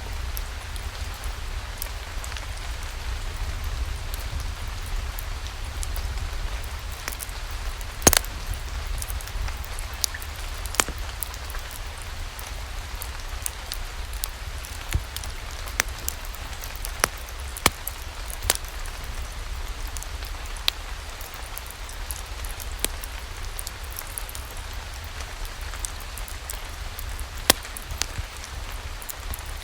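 Steady rain mixed with a crackling wood fire: an even hiss over a low rumble, with scattered sharp pops. The loudest pop comes about eight seconds in.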